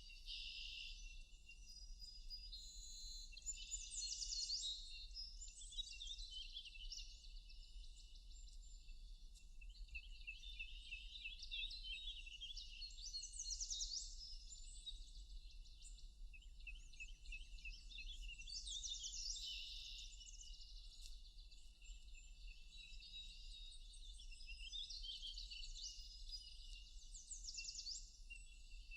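Several songbirds singing at once in a forest, a dense overlapping chorus of quick chirps, trills and sweeping whistled notes.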